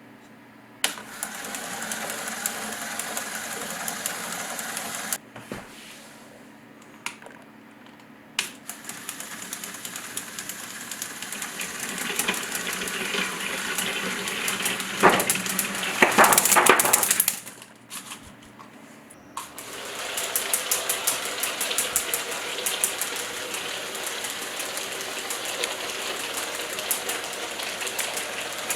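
A Lego Technic electric motor turns a fan through plastic gears, giving a whir with a rapid clicking rattle. It switches on about a second in and stops after a few seconds, then starts again. It runs louder with a burst of heavier clatter midway, stops briefly, and then runs on with fast, even ticking.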